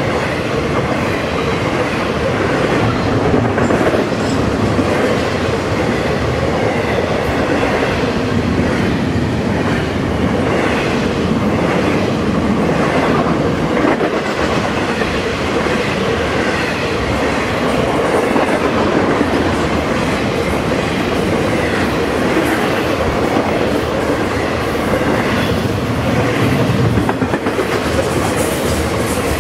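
Train passing close by, its wheels clattering steadily over the rails for the whole stretch.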